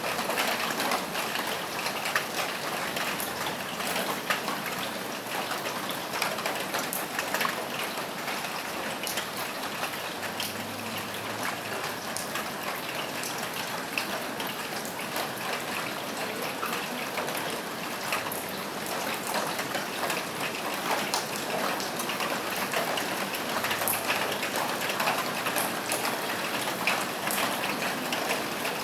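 Steady rain falling on a roof, an even hiss with many separate drops ticking throughout.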